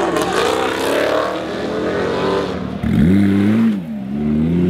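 Car engine being revved hard at a car meet, the throttle opened in two long pulls about three and four seconds in, the pitch climbing, holding and falling each time. Before that comes a stretch of loud, rough engine noise.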